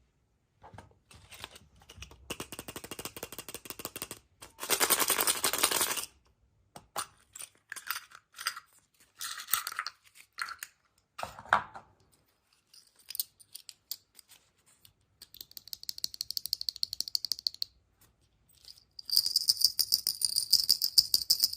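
Hands unwrapping and handling surprise eggs and toy packaging: irregular bursts of crinkling and clicking from foil and plastic, loudest about five seconds in. Near the end a fast, steady rattle of small hard pieces shaken inside a plastic container starts.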